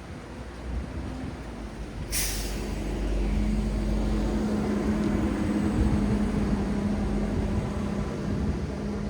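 Heavy vehicle in city traffic: a short, sharp air-brake hiss about two seconds in, then a steady engine hum and rumble that holds for several seconds and eases off near the end.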